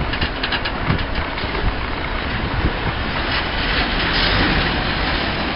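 Class 66 diesel locomotive and loaded ballast wagons rolling slowly past, a steady rumble with wheels clicking over rail joints in the first second. The rumble grows slightly louder from about halfway through.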